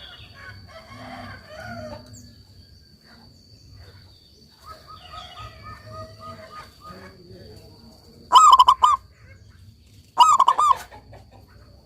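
Zebra dove (perkutut) singing: two loud, short phrases of quick staccato coos, about 8 and 10 seconds in, after softer scattered bird notes. A steady high insect drone runs throughout.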